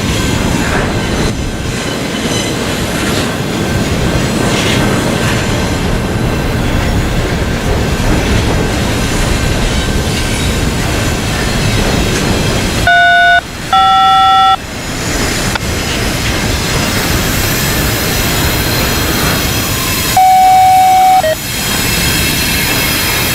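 Freight train rolling past, a steady rumble of wheels on rail. Two short loud horn blasts come about halfway through, and a longer one follows a few seconds later.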